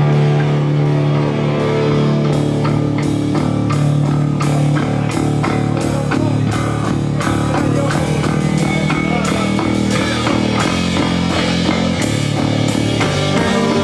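A rock band playing live: electric guitar over a drum kit, with regular drum strikes under held guitar notes, in a passage without singing.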